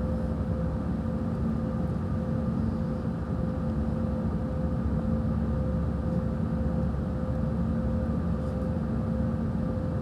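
Steady cabin noise of an airliner in flight: a constant low rush of engines and airflow with a steady hum running through it.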